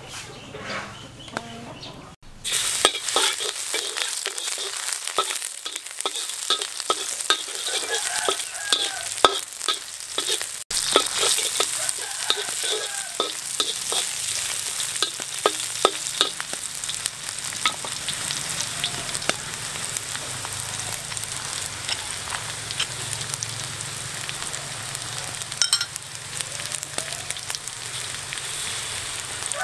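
Sliced shallots and garlic sizzling in hot oil in a blackened steel wok, stirred and scraped with a metal spatula, with many sharp clicks of the spatula against the pan. The sizzle starts suddenly about two seconds in.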